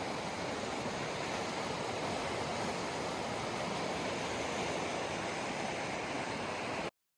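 Steady rushing noise with no distinct tones, holding level, then cutting off abruptly to silence just before the end.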